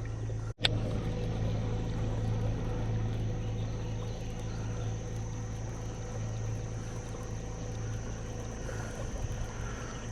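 A bass boat's electric motor humming steadily, a low drone with a fainter whine above it. The sound drops out for an instant under a second in.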